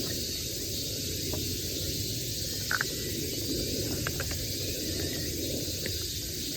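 Wood campfire burning with a steady hiss and a few sharp crackles and pops from the burning firewood.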